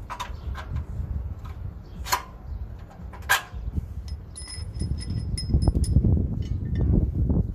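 Hand tools and metal parts clinking and knocking while bolts are worked on an ATV's hitch mount. A few sharp knocks come first, then a quick run of short, ringing metal ticks a little past the middle. A low rumbling noise builds in the second half.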